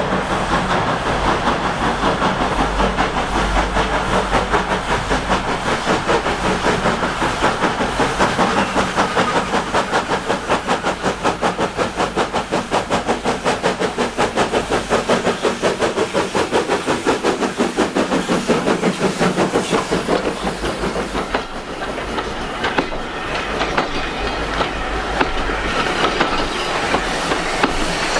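Steam locomotive working along the line with a rapid, regular beat and hiss; about three-quarters of the way through, the rhythm softens and becomes uneven.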